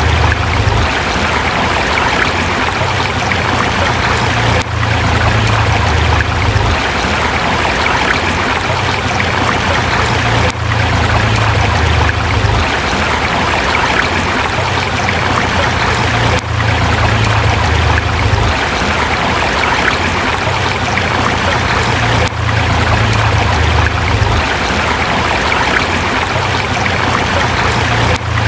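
Forest river flowing over rocks: a steady rushing of water with a low rumble underneath that swells and eases.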